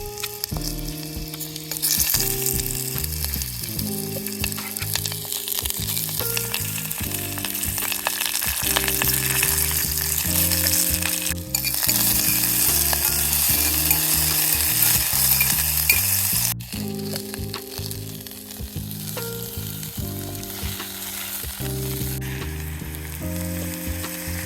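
Food frying and sizzling in a pan, with background music of low sustained notes underneath. The sizzle drops suddenly about two-thirds of the way through.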